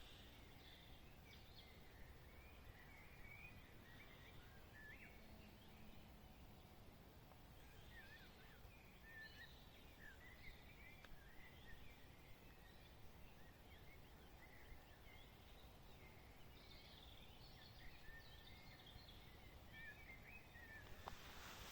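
Faint birdsong in a forest: small songbirds sing in short warbling, chirping phrases that come in three spells, over a low background hush.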